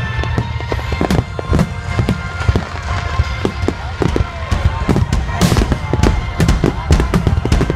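Fireworks going off: many sharp bangs and crackles in quick, uneven succession over music.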